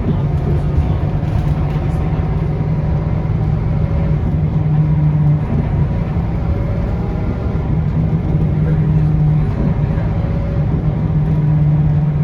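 Scania K230UB bus's diesel engine running steadily under way, heard from inside the passenger cabin as a low drone that swells and eases slightly with the throttle.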